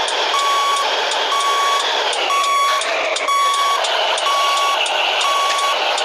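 A truck's reversing alarm beeping steadily, six single-pitch beeps about one a second, over the continuous running noise of a Scania 113H's straight-piped diesel engine.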